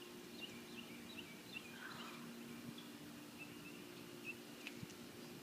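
Small birds chirping in quick, short, high chirps, a couple to a few each second, faint over a steady low hum.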